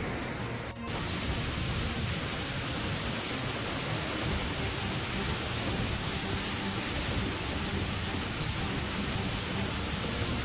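Steady rushing noise of heavy water, rain or floodwater, with a short break about a second in.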